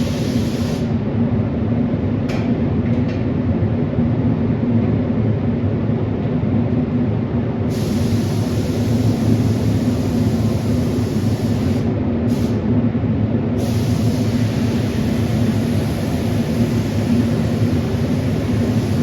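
Air compressor running steadily: a loud, even drone with a low hum that does not change.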